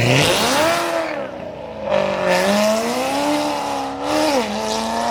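Car engine revving hard as it pulls away, its pitch jumping up at first, rising and falling, dropping sharply near the end and then climbing steadily again, with tyres squealing.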